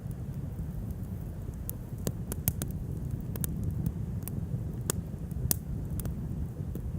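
Wood bonfire burning, with irregular sharp crackles and pops over a low steady rumble.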